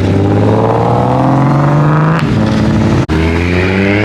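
Sports car engine accelerating hard, its pitch rising, dropping about two seconds in as it shifts up a gear, then rising again.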